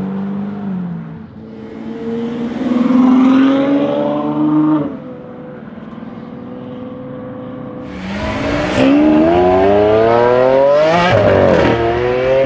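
Ferrari F12's V12 engine through a Novitec exhaust revving: the pitch climbs for a few seconds, falls back to a steadier, quieter run, then climbs again louder about eight seconds in, with a quick drop and rise near the end.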